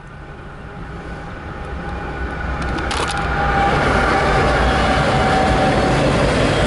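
CSX diesel freight locomotive approaching and passing close by, its engine and rumble growing louder over the first four seconds. Then the steady rolling rumble of a loaded autorack train going past.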